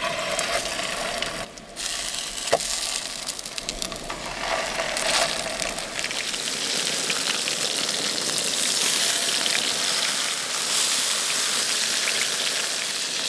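Breaded chicken cutlets sizzling as they fry in coconut oil in a frying pan on a camp stove, getting a little louder and more even after the first few seconds.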